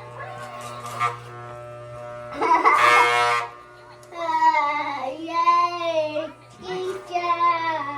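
Electric hair clippers humming steadily while a child cries and wails in long, wavering cries, with a loud outburst about two and a half seconds in.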